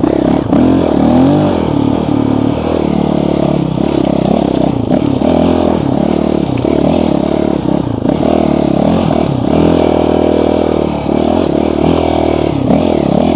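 Motorcycle engine running under way, its pitch rising and falling repeatedly as the throttle is opened and closed while riding.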